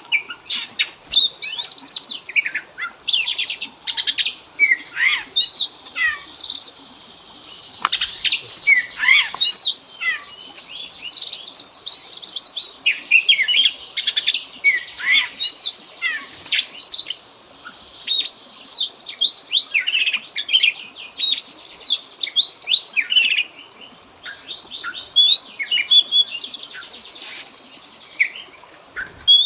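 Oriental magpie-robin (kacer) singing a long, varied song of loud whistles, slurred notes and rapid chirping trills, with phrases imitating other birds' calls.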